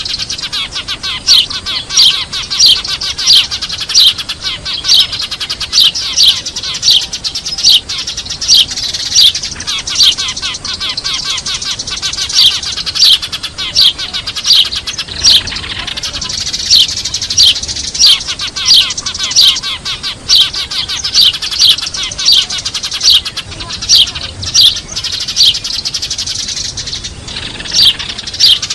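Eurasian tree sparrows chirping noisily: loud sharp chirps repeat about twice a second over the busy chatter of a flock, a sparrow lure call for drawing wild sparrows in. The loud chirps break off briefly about halfway through and again near the end.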